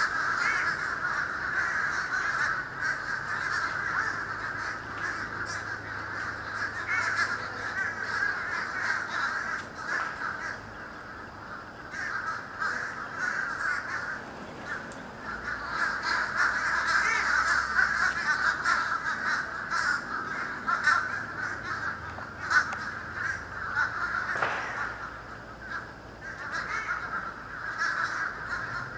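A huge flock of birds calling all at once, a dense, unbroken chatter of many overlapping calls that thins a little about ten seconds in and again near the end.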